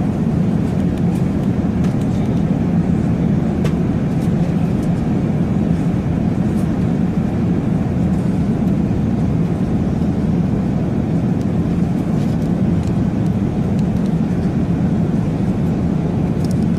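A steady, loud low rumbling drone that holds even throughout, with no distinct events.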